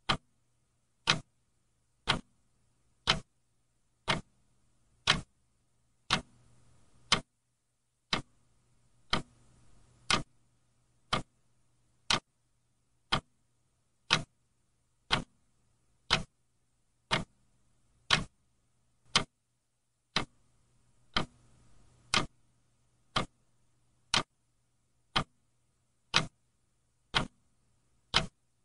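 Clock ticking steadily, one sharp, even tick about every second.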